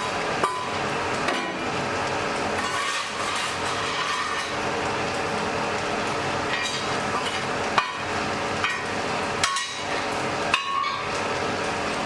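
Blacksmith's hammer striking the anvil about six times at irregular intervals, a few of the blows ringing briefly, over the steady rush of the forge fire.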